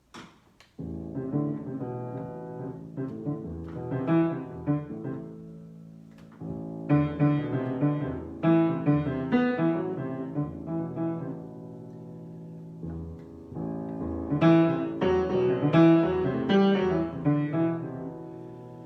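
Piano playing an improvised piece of held chords with melody notes above them, in three rising phrases.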